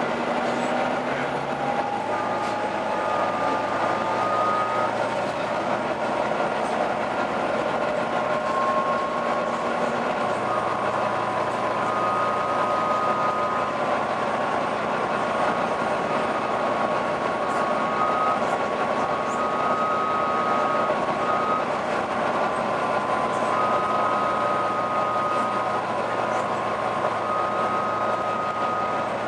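Volvo B9TL double-decker bus running, with a strange howling whine over its running noise. The tone rises in pitch over the first couple of seconds, then holds steady, coming and going in short stretches.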